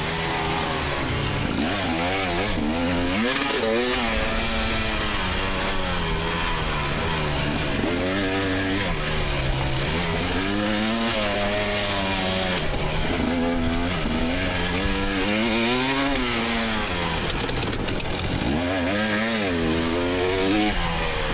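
2024 GasGas EX300's two-stroke engine revving up and dropping back over and over as the rider opens and closes the throttle through the course.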